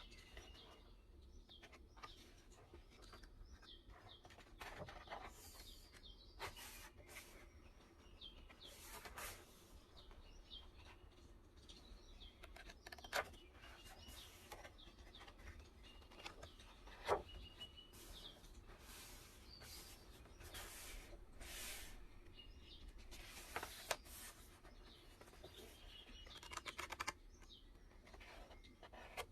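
Faint birdsong, small birds chirping on and off, with scattered soft rustles and light clicks from handling paper and a notebook; two sharper clicks stand out, about 13 and 17 seconds in.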